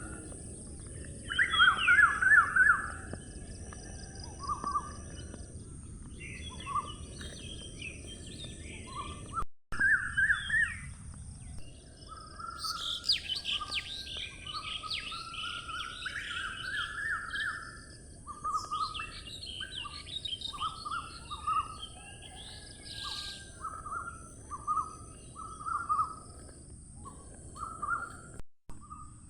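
Several songbirds chirping and singing, their calls overlapping and busiest in the second half, over a steady low background noise and a constant high hiss. The sound cuts out briefly twice.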